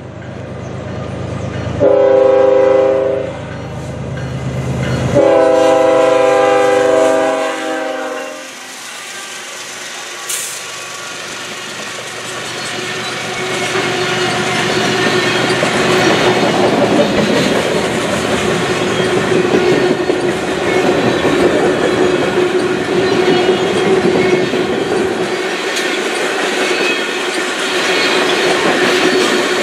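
Freight train horn from the lead GE Evolution Series diesel locomotive as it approaches: a short blast, then a longer one. Then the loaded freight cars roll past close by with steady wheel-and-rail rattle and clickety-clack, over a thin steady whine.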